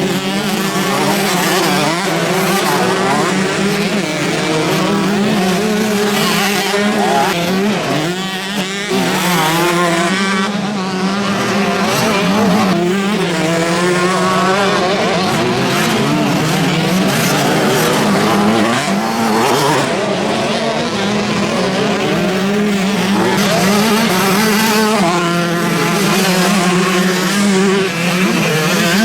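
Motocross bikes racing on the track, several engines revving up and falling back again and again as the riders work through the gears.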